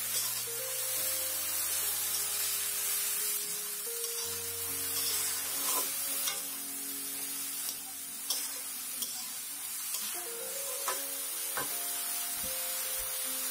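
Yardlong beans and potato strips sizzling in oil in a metal karai while a metal spatula stirs them, clicking and scraping against the pan several times in the second half. Soft background music of held notes plays underneath.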